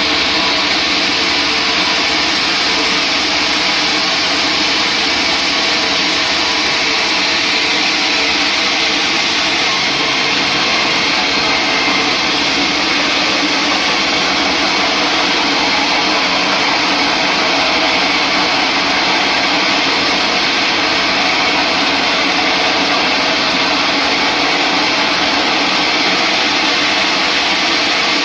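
Sawmill saw running steadily, a loud even machine noise with faint steady tones and no breaks.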